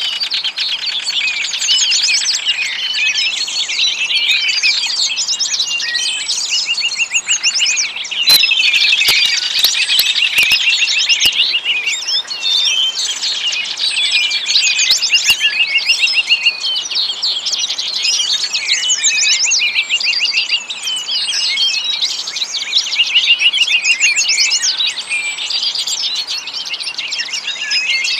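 A dense chorus of many small birds chirping and twittering at once, with quick repeated trills overlapping throughout. A few sharp clicks come in about eight to eleven seconds in.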